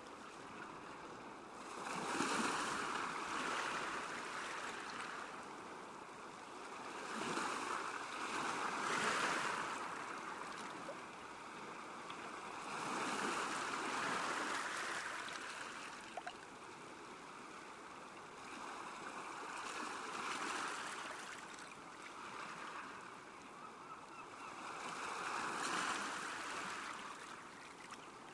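Small waves lapping and washing onto a lake shore, a steady wash that swells into a louder surge about every five or six seconds.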